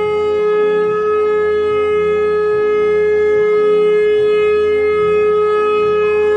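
A single long, loud horn-like tone held steady on one pitch, over a soft low pulse about twice a second.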